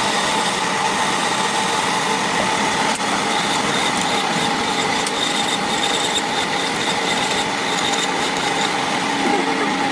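Metalworking machine tool running steadily, a high steady whine over a rough grinding hiss, which drops away abruptly at the very end.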